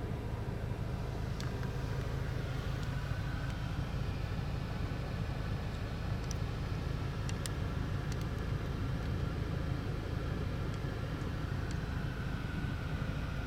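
Steady low vehicle rumble, with a faint wavering higher tone and a few light clicks.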